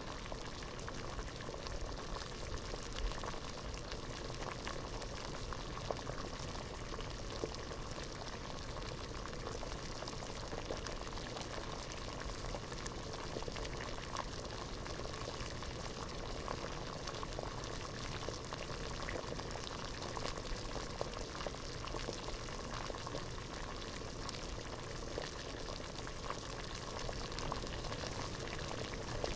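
Water at a rolling boil in a pot: a steady bubbling hiss with many small pops and blips throughout.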